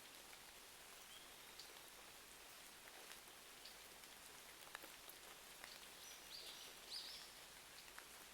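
Faint, steady rain hiss with scattered small crackles and ticks from a fireplace. A few short, high chirps come near the end.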